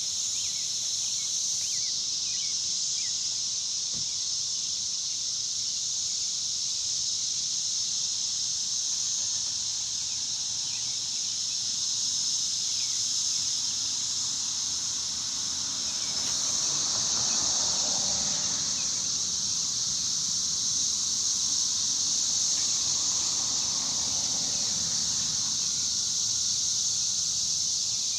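Cicadas buzzing in a steady, continuous high drone. A softer, lower rushing sound swells and fades twice in the second half.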